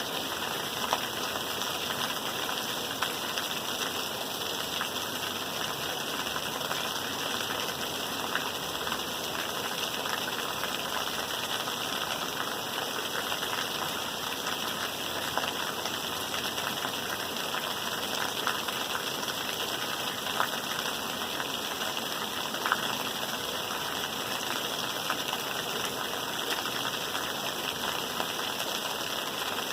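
Steady rain falling: an even hiss, with scattered sharper ticks of single drops.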